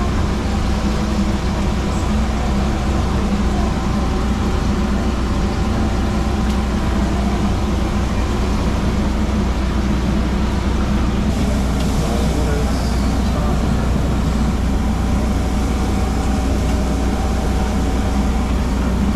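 Steady engine and road rumble heard from inside a moving vehicle's cabin, deep and even throughout, with a faint constant hum.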